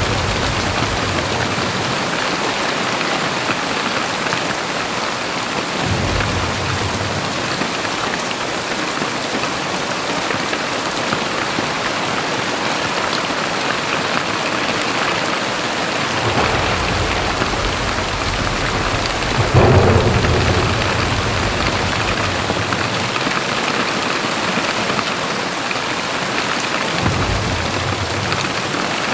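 Very heavy rain pouring steadily, with low rumbles of thunder rolling in several times; the loudest rumble comes about two-thirds of the way through.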